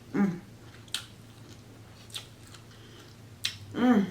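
Close-miked eating of a spicy seafood boil: sharp wet mouth clicks and biting between bites, with two short hums from the eater, one at the start and one near the end.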